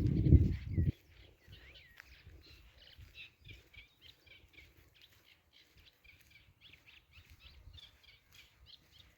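Small birds chirping in a busy run of short, quick high notes. A loud low rumble fills the first second and cuts off abruptly.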